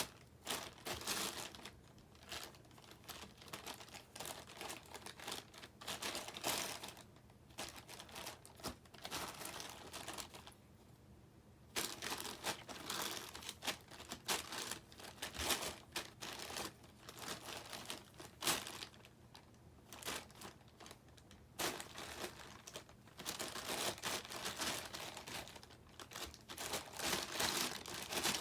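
Crinkly wrapper rustling and crackling as a cat bats at and paws it, in irregular bursts with short pauses between.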